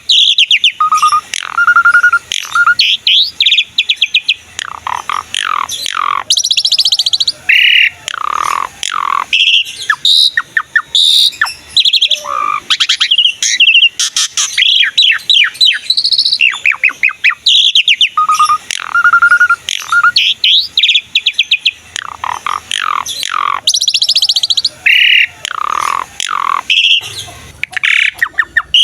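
Asian pied myna (jalak suren) in full song: a long, varied stream of loud whistles, fast runs of notes and downward-sweeping calls, with phrases of short, steady whistles.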